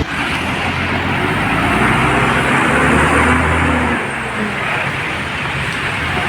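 Diesel truck engine running under a steady rush of road noise, with the low engine note dropping away about four seconds in.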